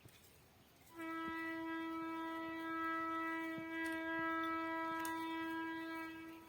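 A railway locomotive's air horn sounding one long steady note at a single pitch, starting about a second in and fading away near the end.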